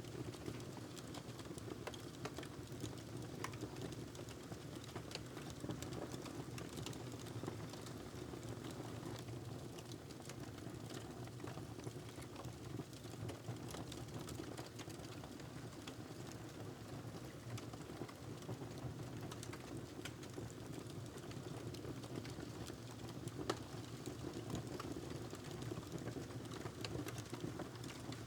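Wood fire crackling: irregular small sharp pops and snaps over a steady low background rush, with one louder pop near the end.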